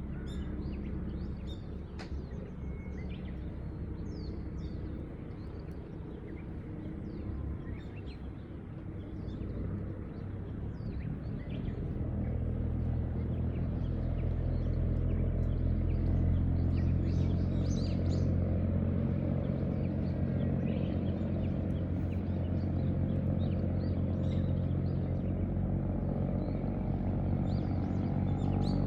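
A low engine drone that swells louder about a third of the way in and then holds steady, with birds chirping here and there over it.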